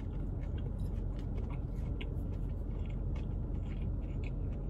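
A person chewing a mouthful of fried chicken sandwich with crispy edges: soft, irregular crunches and mouth clicks over a steady low hum inside a car.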